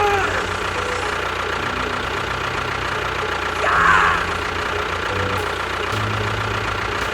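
Tractor engine running steadily at idle with a low chugging rumble. A short gliding sound rises over it about four seconds in.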